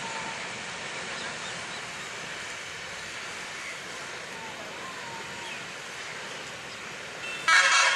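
Long coal train of loaded hopper wagons rolling away along the rails, a steady rushing rumble that slowly fades as it recedes. Near the end a sudden loud, brief sound cuts in.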